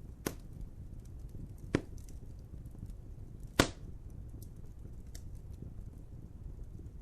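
Wood fire crackling: a low steady rumble of flames with scattered small ticks and three sharp loud pops, the loudest about three and a half seconds in.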